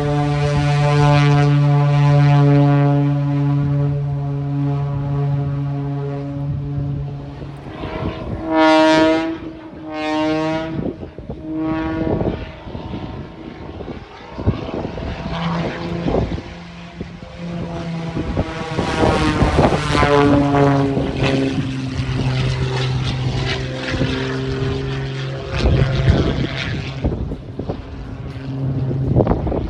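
Aerobatic propeller plane's engine and propeller droning during a flight demonstration. The engine tone is steady at first, then rises and falls in two short, loud surges as the plane swoops past. It swells again about two-thirds of the way in.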